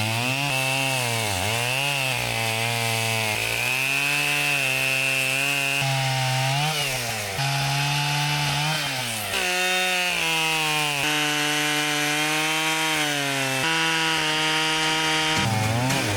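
Two-stroke chainsaw cutting wood, its engine pitch dipping and rising several times in the first few seconds as it bogs in the cut and revs back up, then running at a mostly steady pitch under load with a few small steps.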